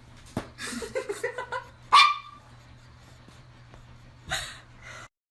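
A dog yipping in a quick run of short, high calls about a second in, then giving one loud, sharp bark.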